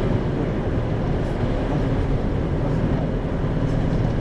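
Isuzu Erga city bus (2RG-LV290N4) running along the road, heard inside the passenger cabin: a steady diesel engine drone mixed with road and tyre noise.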